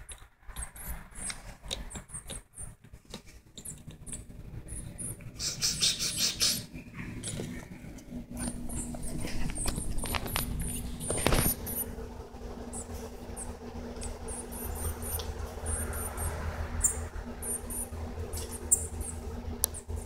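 Young Cuban grassquits giving thin, very high chirps in quick little clusters, over and over, with a denser flurry of chirping about six seconds in. A single sharp knock sounds about eleven seconds in.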